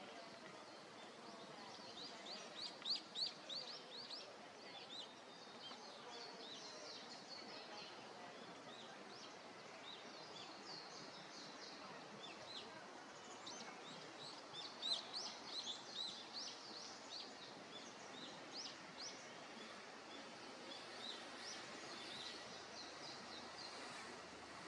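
Small songbirds calling and singing: many short, high notes, with bursts of song about two seconds in and again about halfway through, over a faint steady outdoor hiss.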